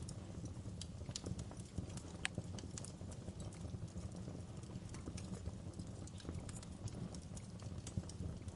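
Wood fire burning in a fireplace: a steady low rumble of flames with irregular crackles and snaps, one sharper pop about two seconds in.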